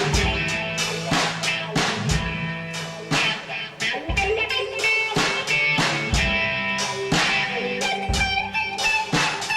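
Electric guitar and drum kit playing an instrumental blues-rock passage between sung verses, with regular drum strikes under the guitar.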